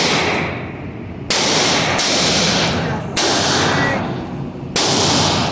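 Four gunshots, unevenly spaced at about one, two, three and nearly five seconds in, each with a long echoing decay off the range walls.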